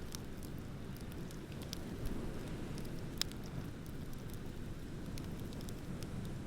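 Wood bonfire crackling, with scattered small pops and one sharper snap about three seconds in, over a steady low rumble.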